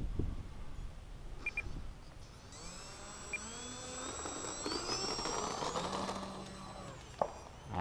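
The electric motor of an FMS 800mm T-28 RC plane whining faintly, its pitch rising over several seconds as it is throttled up.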